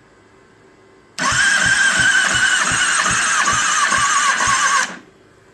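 2009 Kawasaki ZX-6R inline-four engine turned over by its electric starter motor for about three and a half seconds, starting a second in and cutting off suddenly. The starter whines over a slow, even beat of about three compression pulses a second, the slow cranking of a weak battery during a compression test.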